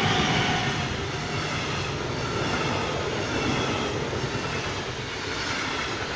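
Electric locomotive and double-deck passenger coaches passing close by at speed: steady rolling rumble of wheels on rail with a high whine. Loudest as the locomotive goes by at the start, then the coaches roll past and the sound eases off near the end.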